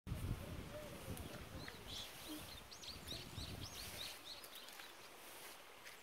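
A small songbird singing a quick run of high, chirped notes, about ten in two seconds, over low rumbling on the microphone that dies away about four seconds in.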